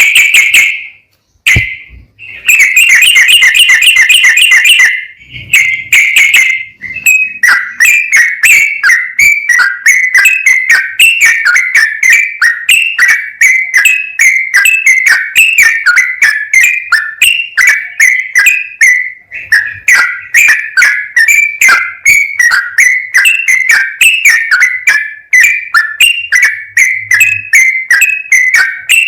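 Sooty-headed bulbul singing a loud, rapid run of whistled notes. After a short pause near the start comes a dense trill, then a brief break, then fast continuous chattering phrases from about seven seconds in.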